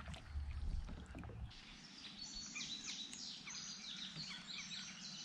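Birds chirping: many short, high, falling notes that overlap, starting about a second and a half in. A low rumble comes before them.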